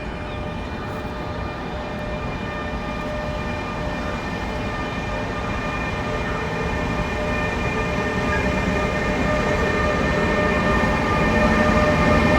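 A train approaching, getting steadily louder, with a steady high whine over a low rumble.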